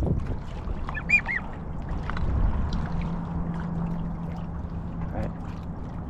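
Goose honking: two short honks about a second in, then fainter calls, over wind and sloshing water, with a low steady hum through the middle.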